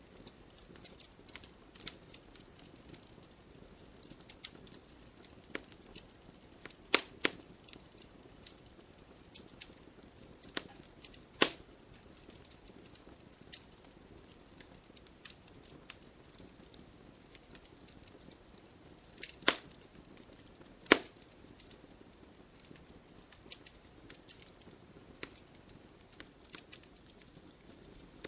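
Wood fire crackling in a fireplace: a steady run of small snaps and ticks over a soft hiss, with a few louder pops, about four of them standing out.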